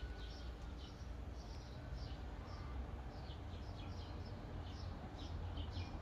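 Small birds chirping: short, high chirps come several times a second, over a steady low rumble.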